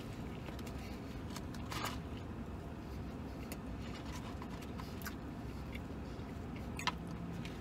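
Steady low hum inside a pickup truck's cab, with a few faint short clicks and smacks from a man chewing a sandwich and eating fries.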